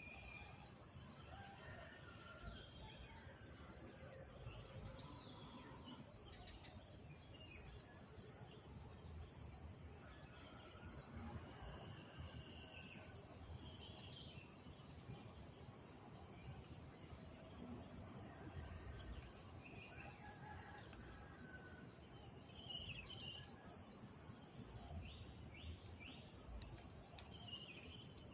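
Rural morning ambience: a steady, high insect trilling under scattered short bird chirps and calls, with a faint low rumble underneath.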